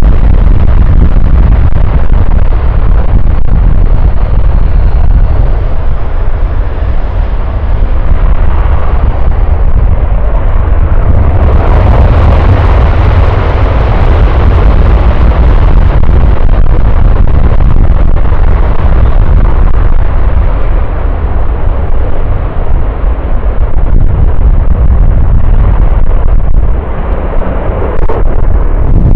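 Military jet engine roar, very loud and continuous with a deep rumble, growing fuller and brighter about twelve seconds in.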